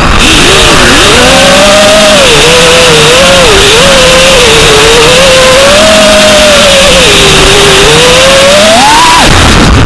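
Quadcopter motors whining under a constant hiss, the pitch wavering up and down with the throttle and climbing sharply near the end.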